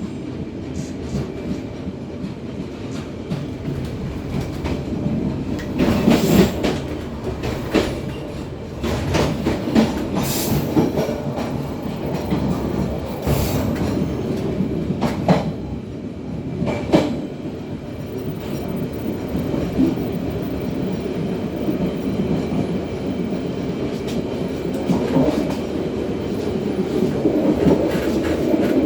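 Matarmaja passenger train running along the track, heard from the rear of the last coach: a steady rumble of wheels on rail, with sharp clacks every couple of seconds through the middle of the stretch.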